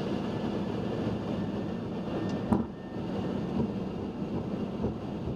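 Boeing 737-800 on its takeoff roll heard from the cockpit: its CFM56 engines run at takeoff thrust under a steady rumble from the wheels on the runway. There is one sharp knock about two and a half seconds in.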